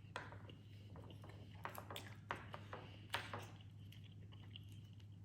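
Faint close-up chewing of salmon salad, with a few small wet clicks from the mouth, over a steady low hum.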